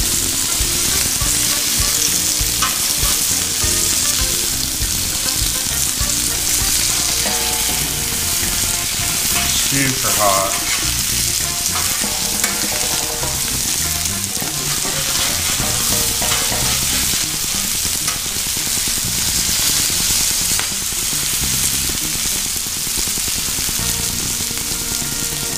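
Consommé-dipped corn tortillas filled with cheese and beef frying on a Blackstone flat-top griddle, a steady sizzle, with a metal spatula scraping across the steel as the tacos are folded and turned.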